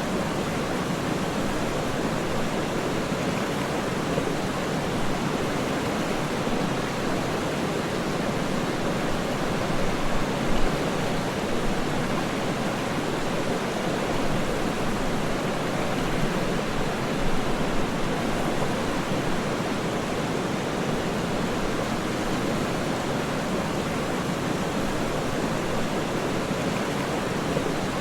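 Waterfall rushing steadily, a dense, even roar of falling water with one brief louder surge about ten seconds in.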